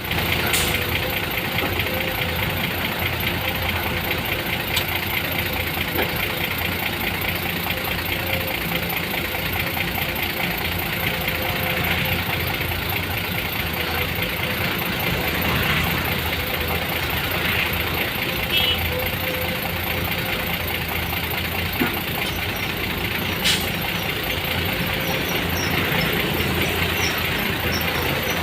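A motor vehicle's engine idling steadily, with a couple of brief sharp clicks.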